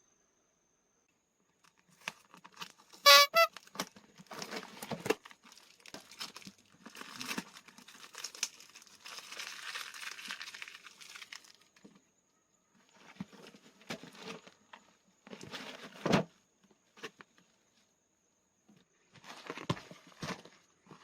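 Irregular crinkling and rustling as something papery or plastic is handled, in separate bursts with short pauses. One sharp click about three seconds in is the loudest sound.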